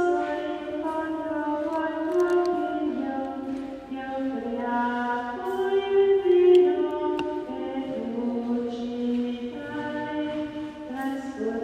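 A choir singing in several parts, holding long notes and moving slowly from chord to chord.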